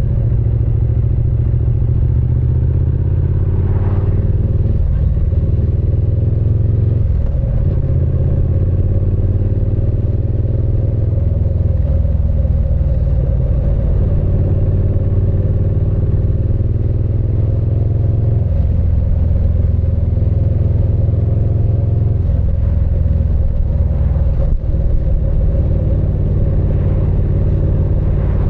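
Triumph Speed Twin 900's 900 cc parallel-twin engine and exhaust under way on the road. Its pitch climbs steadily for a few seconds and then drops back, about five times.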